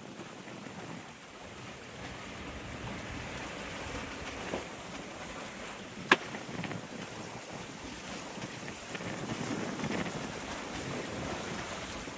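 Wind and sea washing past a sailboat under way, a steady rushing noise with one sharp click or knock about six seconds in.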